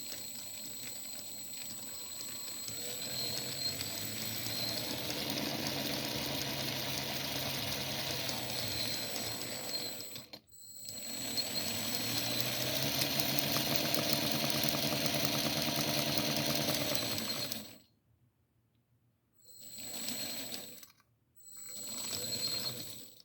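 Brushless hobby motors on electronic speed controllers spinning a toothed belt-and-pulley reduction, with a steady high whine from the controllers. They run for about ten seconds while the speed climbs, stop for a moment, run again for about seven seconds, then give two short bursts near the end.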